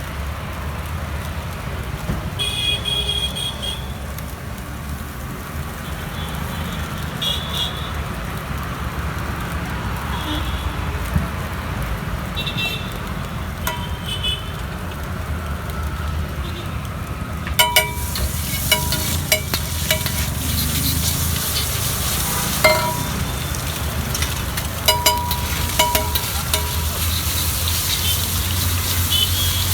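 Egg mixture frying on a hot street-stall griddle. The sizzling swells a little past halfway and is broken by sharp clinks of a metal spatula striking the pan, all over a steady low rumble.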